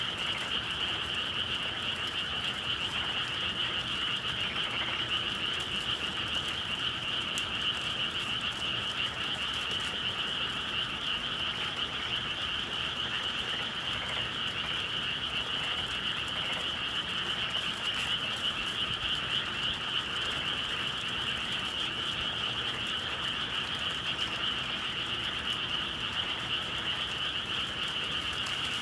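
A dense, steady chorus of many frogs calling together, with no break.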